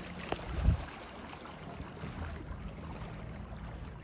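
Sea water lapping and washing at the waterfront, a steady rushing noise. Under a second in there is a short click and then a low thump.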